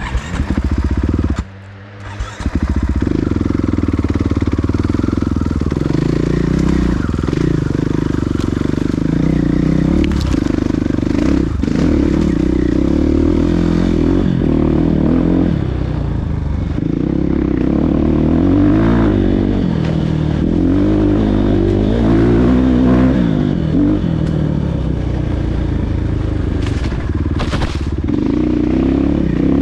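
Motocross dirt bike engines revving up and down repeatedly, with the pitch rising and falling as the riders work the throttle. Several engines overlap at times, and the sound dips briefly about two seconds in.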